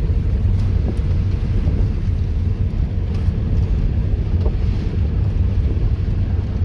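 Steady low rumble of a vehicle driving on a dirt road, heard from inside the cab: engine and tyre noise with a few faint knocks.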